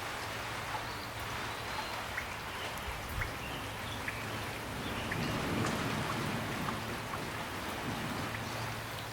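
Steady gentle rain, a soft even hiss with scattered individual drops ticking, swelling a little past the middle.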